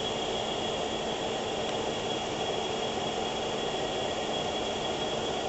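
Car engine idling with the air conditioning switched on full, a steady running noise with a thin high whine held throughout.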